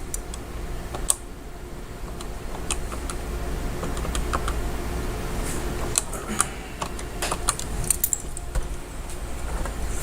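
Irregular light clicks and clatter, like keys or a keyboard being handled, over a steady low rumble.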